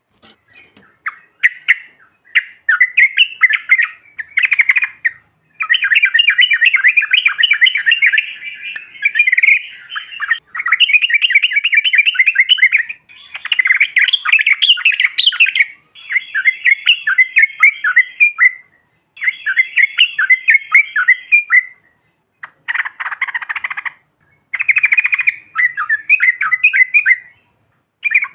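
Yellow-vented bulbul (trucukan) singing: long, fast chattering phrases of rapidly repeated notes, one after another with short pauses between them.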